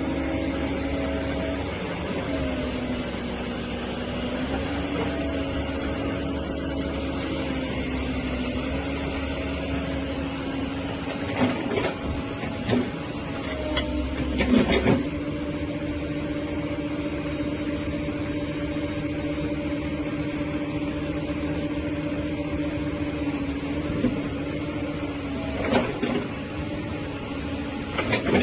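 Hyundai excavator's diesel engine running with a steady hum, its pitch dipping briefly and coming back a few seconds in. A few sharp knocks or clanks sound over it around the middle and near the end.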